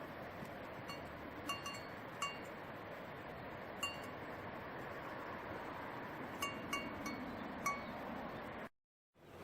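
Light ringing chime or bell pings, about nine irregular strikes at the same few pitches, over a steady background hiss. The sound cuts off abruptly near the end.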